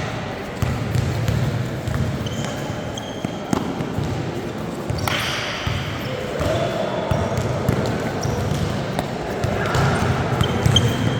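Basketball being dribbled and bounced on a gym floor during a game, repeated low thumps, with voices of players and spectators in the background.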